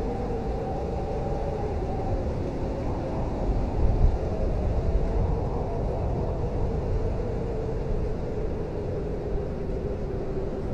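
Blizzard wind howling steadily, with a wavering whistle over a low rumble; a stronger gust swells about four seconds in.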